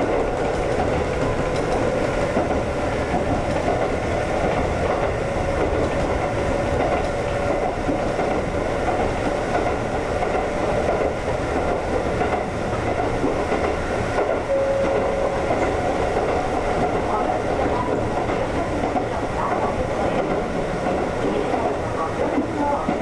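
Konan Railway 7000 series (ex-Tokyu 7000) electric train running along the line, a steady rumble of wheels on rail with a faint steady tone that comes and goes.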